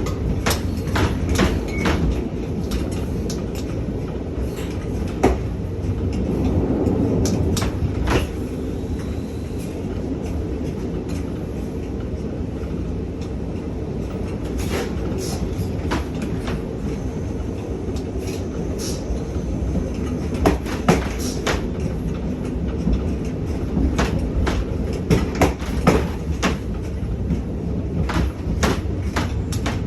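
Running rumble and rattle in the gangway between two passenger-train carriages, with frequent irregular clanks and knocks from the connection as it shakes hard.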